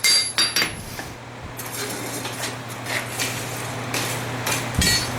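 Hand hammer striking hot rasp steel on an anvil: a quick run of ringing blows at the start, then a pause filled with a steady background hum, and two more ringing blows near the end.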